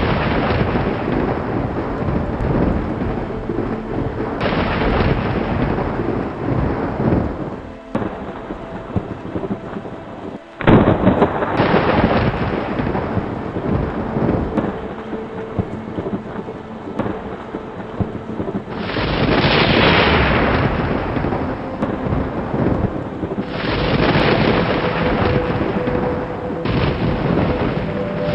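Thunderstorm: roll after roll of thunder, each starting suddenly and rumbling away over a few seconds, over steady rain. The loudest is a sharp crack about ten seconds in.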